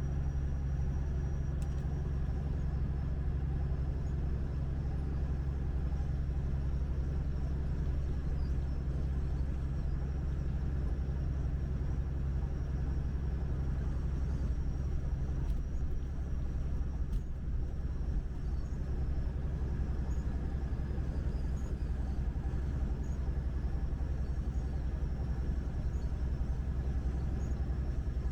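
Tractor-trailer under way on the highway: a steady low drone of the truck's engine under a constant rumble of road noise.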